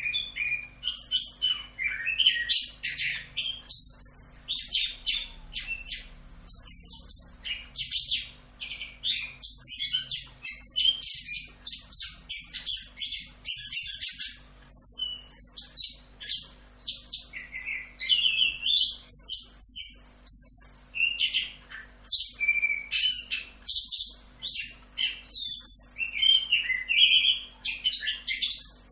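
Orange-headed thrush (anis kembang) singing a continuous rolling song (ngerol): fast high whistles, trills and slurred notes one after another with hardly a pause.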